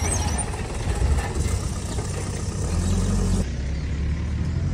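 Four-wheel-drive vehicle engines running as they drive through a muddy dirt track. The sound changes abruptly about three and a half seconds in, where a different vehicle's take begins.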